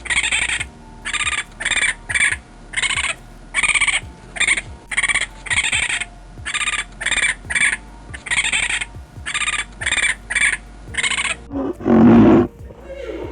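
Animal calls: a run of short, harsh, high-pitched calls, about two a second, that stop about eleven seconds in, followed by one louder, deeper call near the end.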